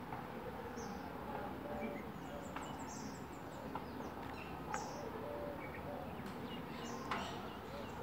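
Small birds chirping: short high chirps every second or so, with a quick run of very high notes about two and a half seconds in. There are also a few sharp clicks.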